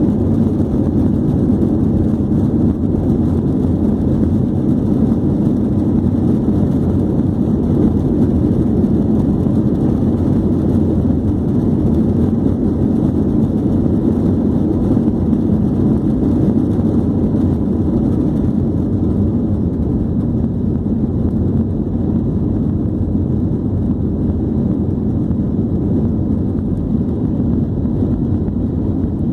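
Airbus A321 jet airliner taking off: a steady, loud, low rumble of jet engines and rushing air that eases slightly in the second half.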